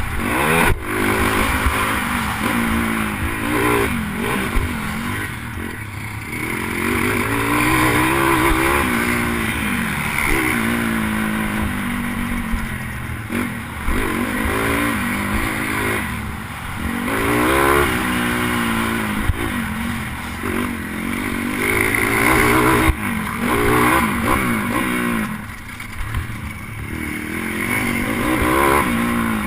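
Pit bike engine racing on a motocross track, revving hard and easing off over and over, its pitch climbing and dropping every second or two through gear changes, with a few sharp knocks, heard close up from the rider's helmet camera.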